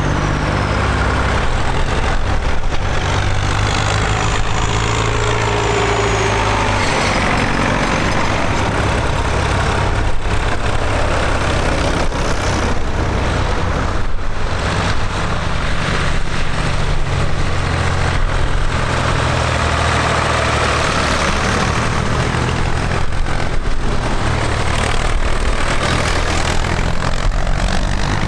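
Tractor engines running, a continuous low engine drone with a hiss over it.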